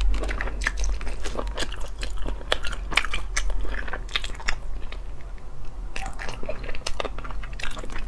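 Close-miked chewing of sea snail meat, with many quick, irregular clicks and smacks of the mouth.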